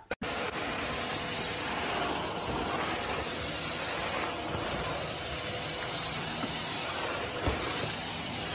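Vacuum cleaner running steadily, a level rushing hiss with a faint high whine through it, and one brief soft bump near the end.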